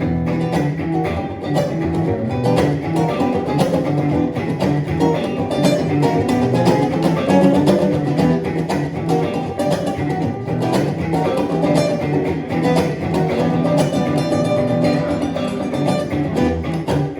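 Acoustic and electric guitars playing an improvised instrumental passage, with a continuous run of plucked notes.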